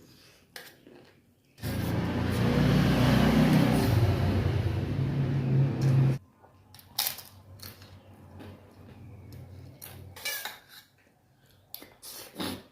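Dishes and cutlery clinking and tapping during a meal. A loud, steady rushing noise with a low hum starts about a second and a half in and cuts off suddenly after some four and a half seconds. Scattered sharp clinks and taps follow.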